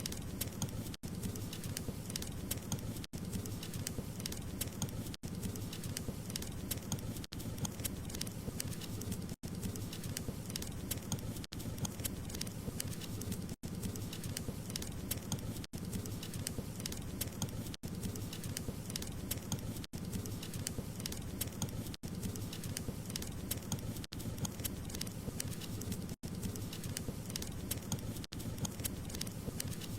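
Wood fire crackling and popping continuously, a dense stream of small snaps over a low rumble. The sound cuts out for an instant about every two seconds.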